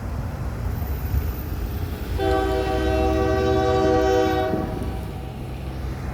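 Diesel freight locomotive horn sounding one long chord of several tones, starting about two seconds in and lasting about two and a half seconds. Beneath it runs the steady low rumble of the departing train's diesel engine.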